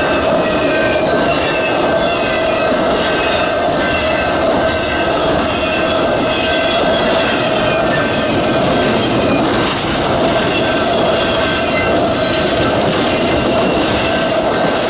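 Freight train cars rolling past, with steady squealing from the wheels over the rumble of the train.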